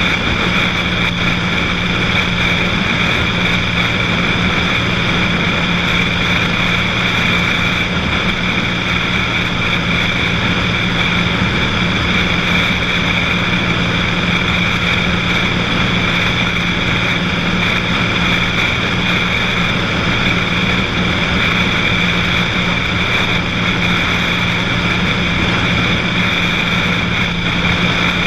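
Cessna 182 single-engine propeller plane in steady cruise: the piston engine and propeller drone evenly, with no change in pitch or level.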